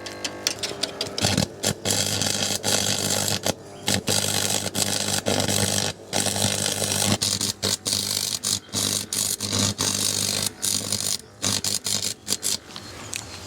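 An old, tired electric arc welder welding a steel joint: the arc crackles and sizzles, breaking off and re-striking many times, over a steady hum.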